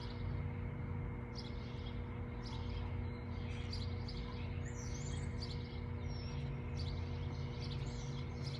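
Many birds chirping at once, a dense overlapping chatter of short calls, over a steady low hum.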